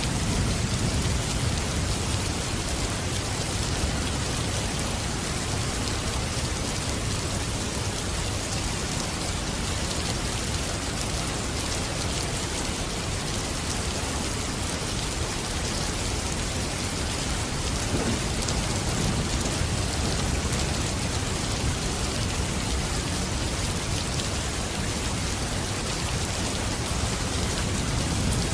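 Steady, heavy rain falling, with a low rumble underneath that swells slightly near the start and again about two-thirds of the way through.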